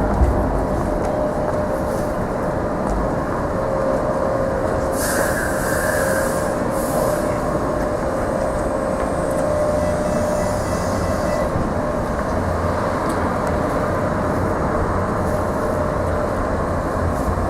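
Sheffield Supertram tram running through the street stop with a steady hum, and a brief high wheel squeal about five seconds in.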